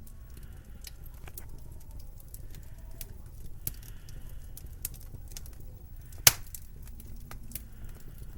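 Wood fire crackling with scattered irregular snaps, one much louder pop about six seconds in, over a low steady rumble.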